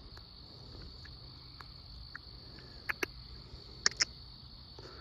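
Night chorus of crickets, a steady high-pitched trill, with two pairs of sharp clicks about three and four seconds in.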